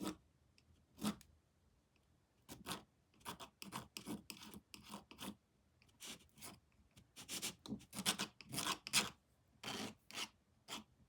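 Paintbrush strokes on canvas: a run of short brushing strokes, irregular, a few a second, becoming steady from about two seconds in.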